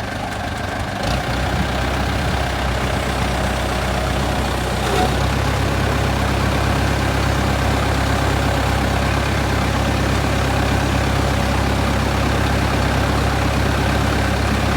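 Case 530 tractor engine started and running at a steady idle. It gets louder about a second in and again near five seconds in.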